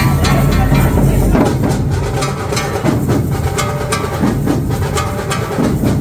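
A dhol team drumming: dhol drums beaten in a continuous rhythm of sharp strokes.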